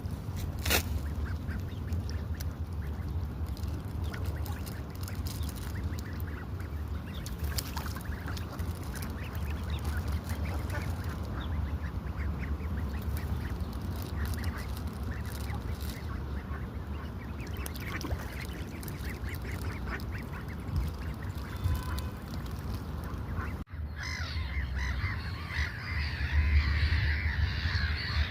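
Waterbirds calling over a steady low rumble, with scattered calls at first. About three-quarters of the way through the sound cuts, and a dense chatter of many birds calling at once follows.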